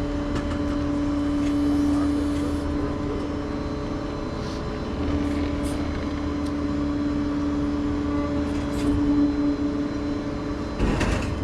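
A vehicle engine idling: a steady drone with a constant hum that eases briefly about four seconds in, and a short knock or rattle near the end.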